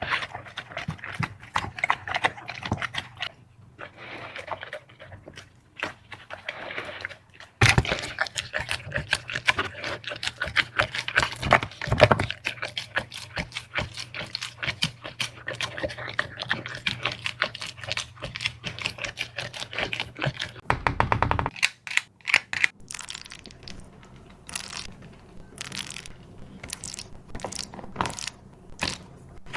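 A dog eating noisily: rapid wet chewing, smacking and licking clicks, with scrapes and knocks. Towards the end the clicks slow to an evenly spaced run.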